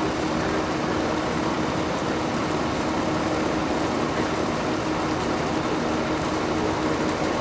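Steady mechanical drone with a constant hum that holds an even level throughout.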